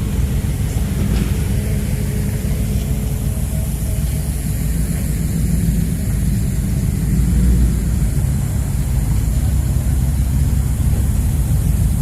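Steady low rumble of car engines running, with a faint hiss over it.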